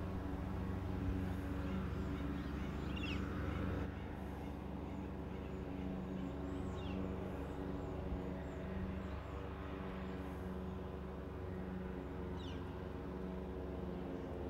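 Outdoor ambience: a steady low hum under occasional bird calls, with a few quick downward-sweeping chirps and faint high twitters.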